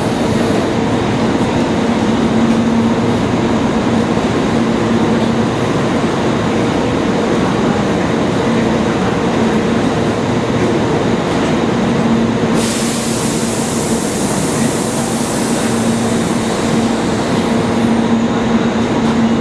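Tobu 6050-series electric train standing at the platform with a steady electrical hum. A high hiss comes in suddenly about two-thirds of the way through.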